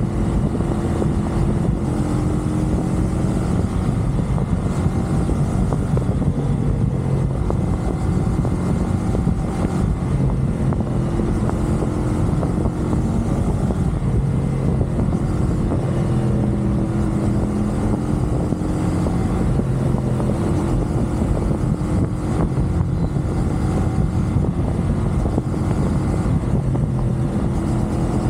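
CFMoto 450SR's parallel-twin engine running steadily at cruising speed, with a steady low drone and road and wind rumble.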